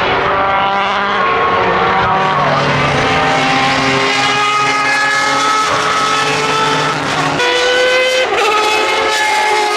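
Jaguar XJR-8's 7-litre V12 racing engine running hard on track at high revs. Its pitch shifts abruptly about two seconds in and again about seven seconds in.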